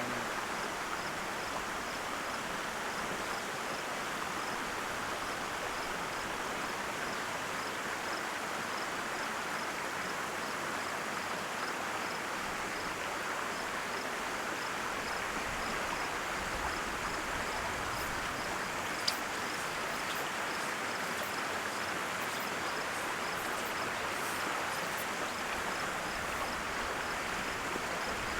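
Steady rush of a flowing mountain trout stream, with a faint high chirp repeating about twice a second over it. A few light clicks come about two-thirds of the way through.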